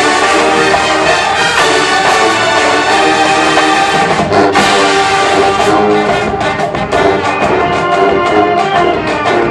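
College marching band playing loudly, its brass section of trombones and trumpets to the fore in held chords, with a sharp accent about four seconds in.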